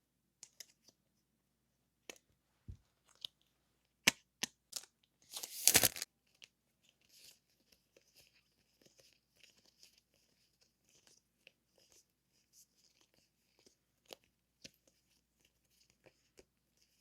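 Stationery packaging and paper goods handled by hand: scattered light taps and clicks, a short loud rip about five and a half seconds in, then soft crinkling and rustling.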